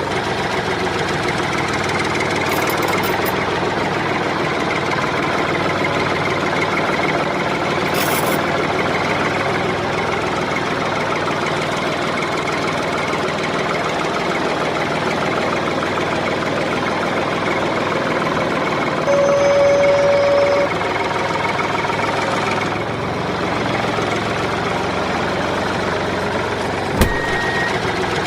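Small tractor engine running steadily with a knocking rattle. About 19 seconds in, a horn toots once for about a second and a half, and a sharp click comes near the end.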